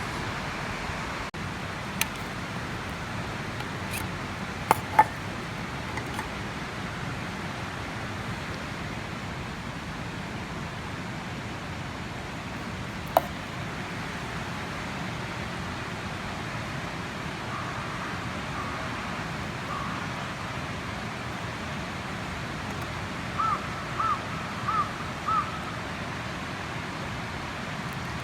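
A steady rushing hiss, with a few sharp clicks and clinks in the first half; near the end a crow caws several times in quick succession.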